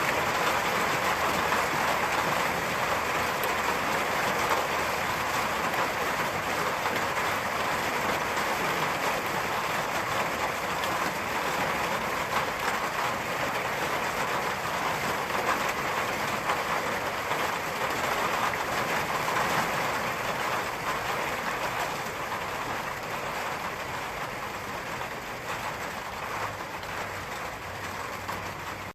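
Steady heavy rain with an even hiss and no distinct strokes, easing off gradually near the end.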